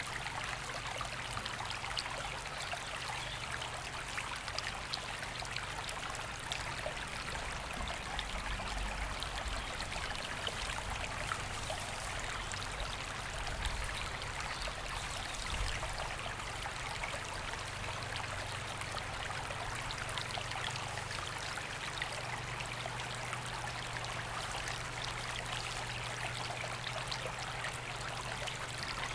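River water running steadily over stones, a continuous rushing with small splashes and trickles throughout.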